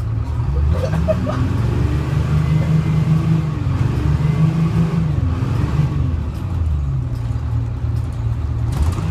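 GMC New Look bus's Detroit Diesel 6V71 two-stroke diesel engine running under load, rising in pitch as the bus accelerates, holding, then dropping back to a lower steady note about halfway through.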